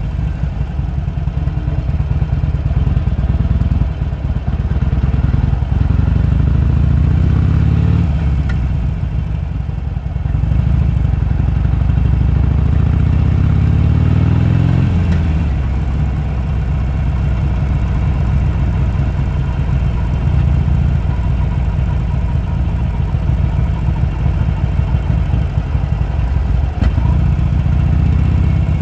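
Harley-Davidson Sportster's air-cooled V-twin engine running under way. Its pitch climbs twice as the throttle opens, each pull ending with a sudden drop at about 8 and 15 seconds in, then it holds a steady lower note.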